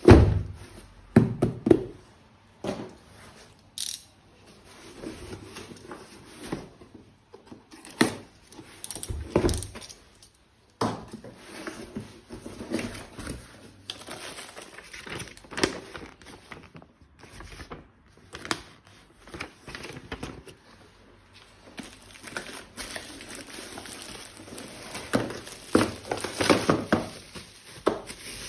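Toy-gun packaging and plastic parts being handled: crinkling and tearing of wrapping, with scattered sharp knocks of plastic pieces.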